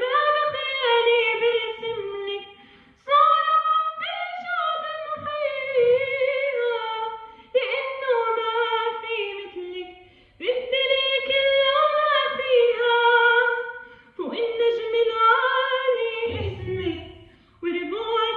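A woman singing an Arabic nasheed solo and unaccompanied, in a high key. She sings long gliding phrases with brief breath pauses every three to four seconds.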